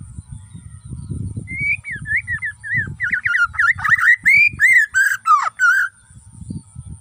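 Borneo shama (murai batu) singing: a phrase of varied whistles starting about a second and a half in, breaking into a fast, loud run of repeated notes before stopping about a second before the end. A low thumping noise runs underneath.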